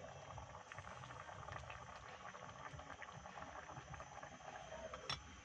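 Liquid bubbling at a boil in a pot, a soft dense crackle of small pops. A single sharp click comes about five seconds in.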